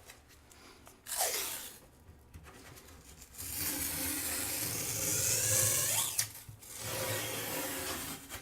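Adhesive tape being pulled off its roll in three pulls, a short one, then a long one of about three seconds, then a shorter one.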